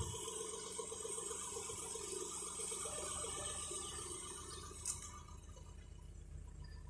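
Nissan RB20E straight-six idling steadily, with a single sharp click about five seconds in.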